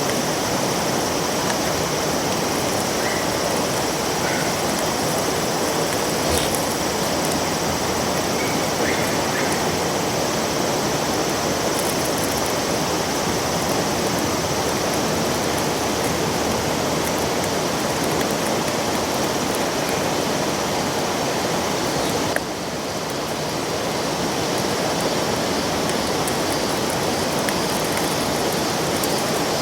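Steady rushing of river water flowing over rocks. The sound drops suddenly about two-thirds of the way in and slowly builds back up.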